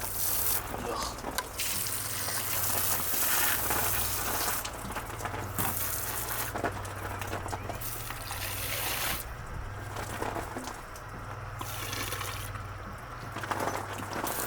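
Water running and spraying in on-and-off spells of a second or a few seconds each, over a steady low hum.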